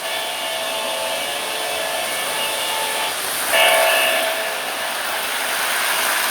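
Model train locomotive's horn sounding twice: a long blast of about three seconds, then a short one about half a second later, over a steady hiss.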